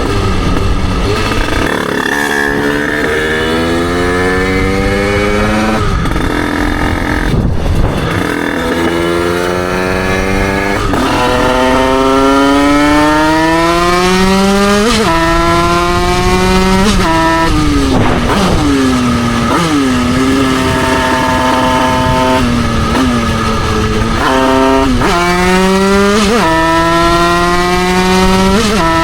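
Derbi Senda's two-stroke single-cylinder engine, bored out to 88cc, heard onboard while riding. It revs up again and again, with the pitch dropping sharply at each gear change, and holds a steady pitch for a few seconds after the middle.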